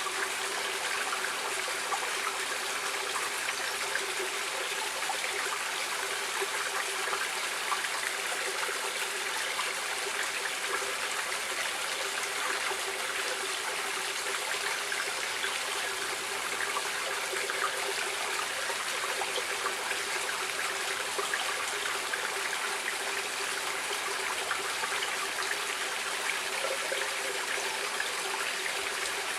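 Stream water running and splashing steadily over rocks, an even rushing with fine trickling detail.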